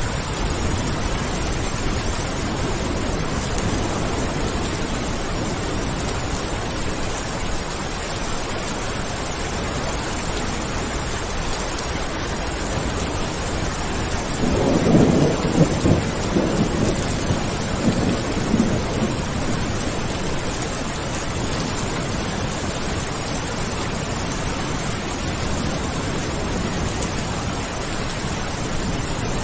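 Steady rain falling, with a rumble of thunder about halfway through that swells and fades over a few seconds.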